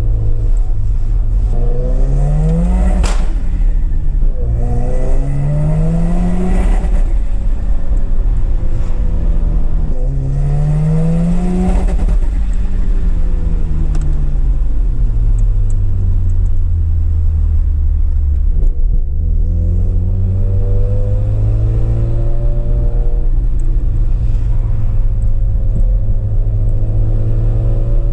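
Mazda rotary car engine pulling through the revs: the pitch climbs and drops three times in the first half, then settles to a steady low drone for the rest.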